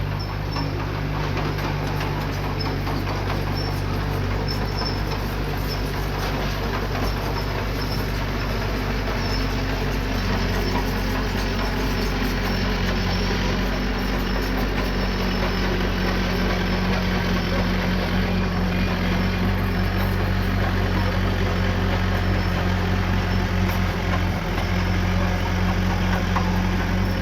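Diesel engine of a small bulldozer or dump truck running steadily at an even pitch, a little louder from about ten seconds in.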